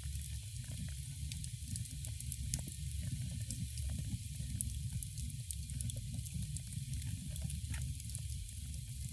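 Fire crackling in a fireplace: scattered pops and snaps over a steady hiss and low rumble.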